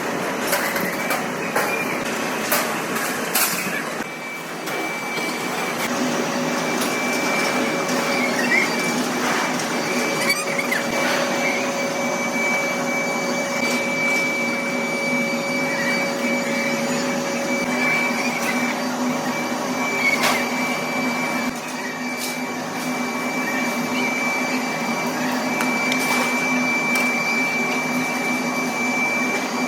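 Workshop machinery running steadily: a motor hum with a constant high whine, broken by a few sharp metallic knocks.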